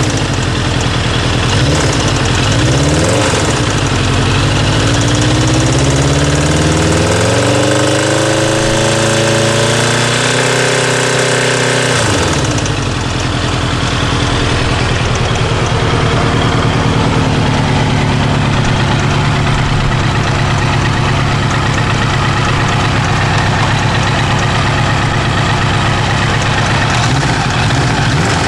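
Kawasaki GPZ900R inline-four engine blipped a few times, then revved up and held for a few seconds before dropping back suddenly to a steady idle. A hammering runs through it, a fault whose cause the owner doesn't know.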